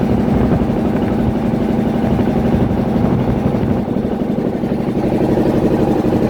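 Fishing boat's engine running steadily, heard from on board, with a brief slight drop in level about four seconds in.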